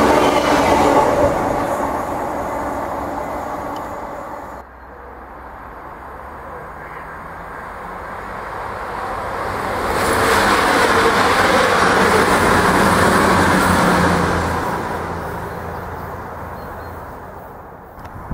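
A passenger train running past close by and fading away. About four and a half seconds in, the sound cuts to an East Midlands Railway HST (Class 43 high-speed diesel train) approaching. It passes at speed, loudest from about ten to fourteen seconds in, then fades as it goes away.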